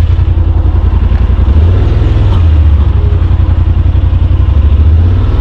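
Side-by-side's engine running at a low, throbbing idle, its note shifting down and back up about one and a half seconds in and again near the end.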